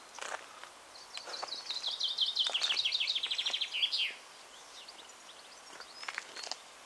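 A songbird singing one phrase: a run of quick high notes that falls slightly in pitch and speeds up into a trill, ending about four seconds in. A few faint chirps follow near the end.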